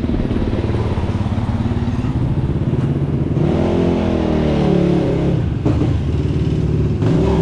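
Motorcycle engine idling with a fast, even pulse. Partway through, an engine note rises and then falls over about two seconds, from a rev or a vehicle passing. A short knock follows.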